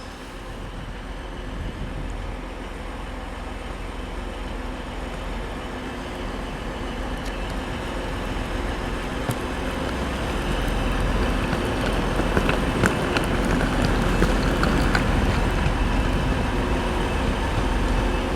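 Electric multiple unit moving through the station, its steady motor hum and wheel noise growing gradually louder, with a few sharp clicks from the wheels over the rails in the second half.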